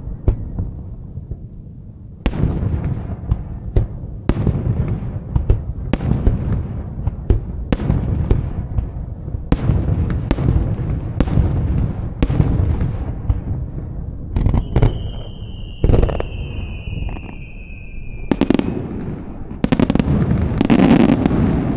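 Fireworks shells bursting one after another, a bang with a trailing crackle about every second or two. In the second half a long whistling tone falls slightly in pitch for about four seconds, and near the end the bursts come thick and fast.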